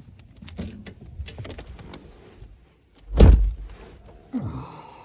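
A Ford pickup truck's door is shut with one heavy thump about three seconds in, after several small clicks and knocks of someone climbing into the cab.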